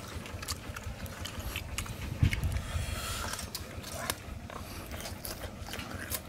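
Eating sounds from a man biting and chewing cooked softshell turtle meat: wet chewing, lip-smacking and small scattered clicks and crunches, over a low rumble.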